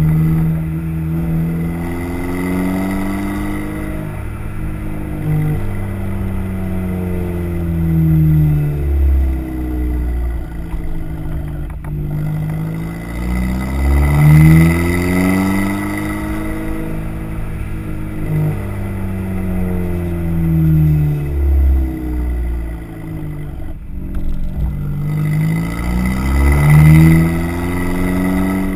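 Exhaust of a 2008 Volkswagen GTI's turbocharged 2.0-litre four-cylinder through an AWE cat-back exhaust, with a K04 turbo, Eurojet downpipe and Stage 3 Bluefin tune. The engine note rises and falls in pitch over and over as the engine is revved up and then eases off, a few seconds each time.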